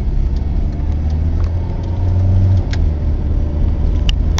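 Car engine and road noise heard from inside the cabin while driving, a steady low hum that swells for a moment about two seconds in and eases off, with a couple of sharp clicks near the end.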